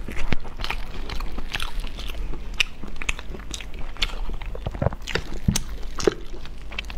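A person chewing sticky, glazed braised meat, with wet mouth clicks and lip-smacks coming irregularly several times a second.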